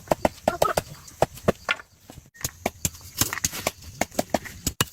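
Rapid, irregular sharp clicks and snaps, several a second, with a brief pause about two seconds in.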